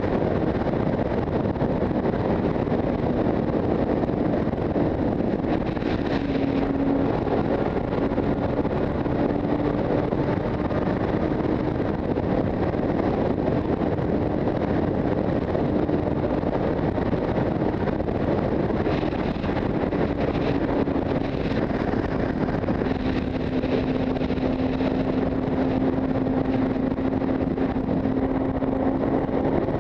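Motorcycle riding at a steady speed: the engine's drone holds a fairly even pitch that drifts slightly, under a constant rush of wind and road noise.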